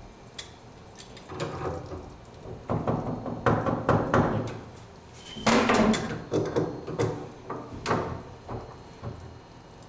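Wrenches loosening the threaded unions that join a tub and shower valve to its copper supply pipes: irregular metal clanks, knocks and scraping, loudest about halfway through.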